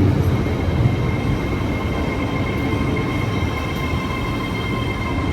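Train standing at the platform with its engines and onboard equipment running: a steady low rumble under a steady high whine that grows a little stronger about two seconds in.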